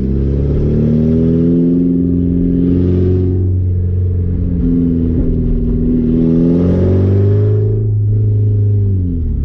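Straight-piped 1989 Porsche 944's 2.7 litre four-cylinder engine pulling under acceleration. The revs climb, drop sharply about three seconds in at a gear change, and climb again. Near the end they fall away as the throttle is let off.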